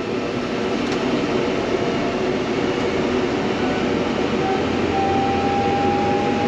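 Inside the cab of a Fendt tractor picking up speed on the road: a steady engine and drivetrain rumble mixed with the cab's ventilation fan. About four and a half seconds in, a thin whine comes in and rises slightly in pitch.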